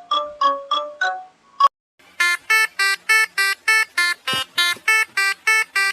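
Electronic jingle: a quick run of mallet-like notes that ends about a second in, a sharp click, a short pause, then a rapid string of identical buzzy electronic beeps, about three a second.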